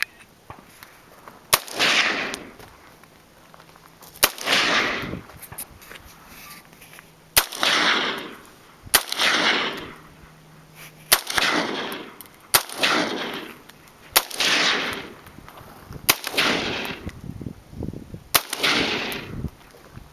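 AR-15 rifle fired outdoors in nine single shots at an uneven pace, one every one and a half to three seconds. Each sharp crack is followed by about a second of rolling echo that fades away.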